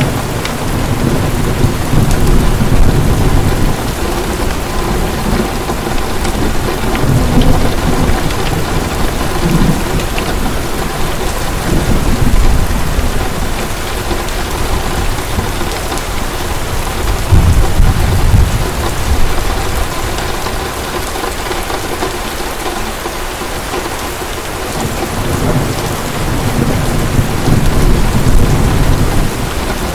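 Heavy rain pouring steadily, with rolling thunder that swells and fades several times, loudest about seventeen seconds in and again near the end.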